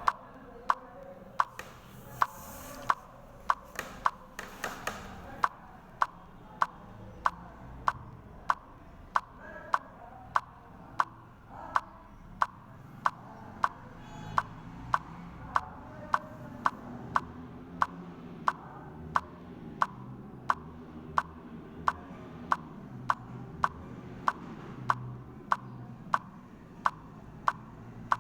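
Sharp, evenly spaced clicks, about three every two seconds, over a faint low background hum.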